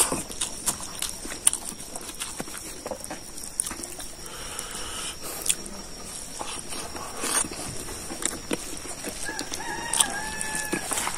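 Close-up wet chewing and lip-smacking of a man eating rice and pork by hand, a steady run of short mouth clicks. A rooster crows in the background about nine seconds in, with a shorter, fainter fowl call about four seconds in.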